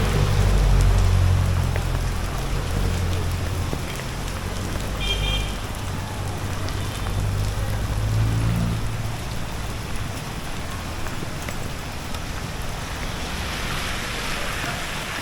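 Steady rain falling, with the low rumble of a motor vehicle's engine in the first few seconds and again briefly about eight seconds in.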